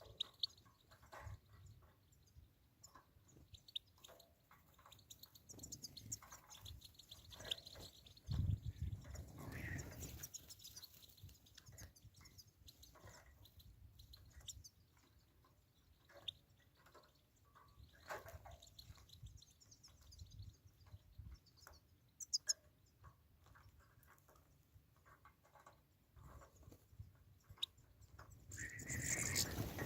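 Birds chirping in short, scattered calls, with a louder low rustling noise for a couple of seconds about a third of the way in, and the sound growing louder near the end.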